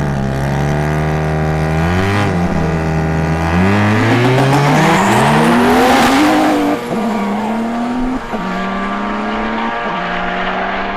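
A Porsche and a rotary-engined car racing a drag run, their engines revving up in repeated rising steps through the gear changes. They are loudest about six seconds in, then run on at a steadier pitch.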